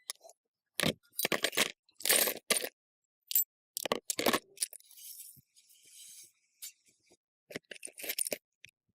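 Small metal engine parts and tools clinking and rattling as they are handled, in several bunches of sharp clinks with a stretch of soft scraping in the middle.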